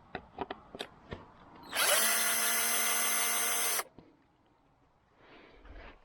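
Power drill running for about two seconds, spinning up quickly and then stopping suddenly, after a few light clicks and taps.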